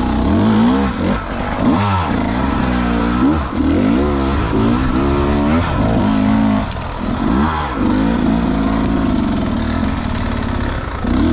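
Beta two-stroke enduro dirt bike engine under riding, the throttle opening and closing over and over so the pitch rises and falls every second or so.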